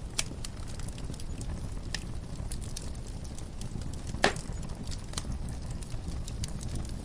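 Wood fire crackling in a fireplace: scattered pops and snaps over a steady low rumble, with one loud pop a little past the middle.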